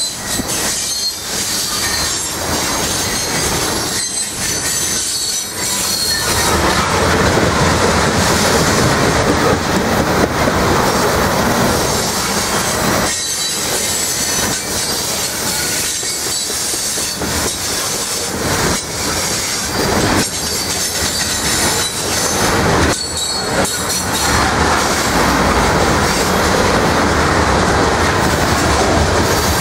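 Loaded coal hopper cars of a long freight train rolling past close by: steady loud clatter of steel wheels over the rails, with a high wheel squeal that is strongest in the first several seconds.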